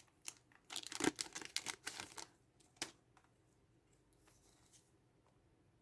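A foil Pokémon booster pack wrapper being torn open and crinkled in a quick series of short rips during the first three seconds, then quiet.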